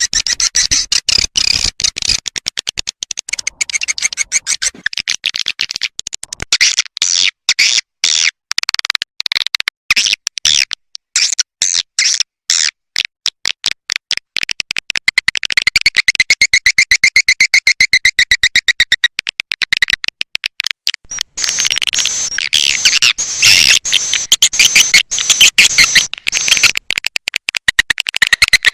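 Recorded swiftlet calls played as a lure: a dense stream of very rapid clicks mixed with high twittering chirps, growing fuller and louder about halfway through.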